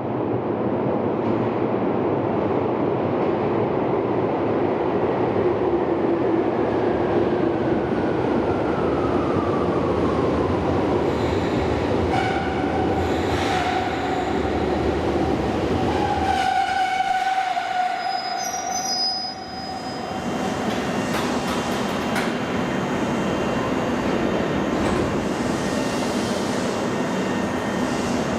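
Former Tokyu 8500 series electric train running through an underground station with heavy rumble. A falling motor tone comes as it slows, then brake and wheel squeal. There is a short lull about two-thirds of the way in, and then steady running noise again.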